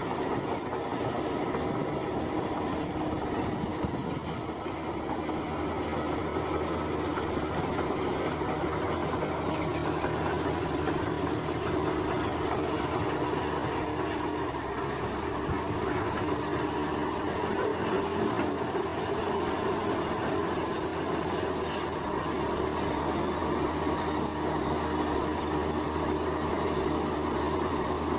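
Heavy earthmoving machinery's diesel engine running steadily, with insects chirping in a fast pulsing trill high above it.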